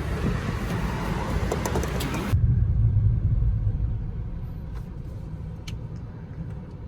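Wind buffeting the microphone, cut off suddenly about two seconds in, giving way to a low steady rumble that slowly fades.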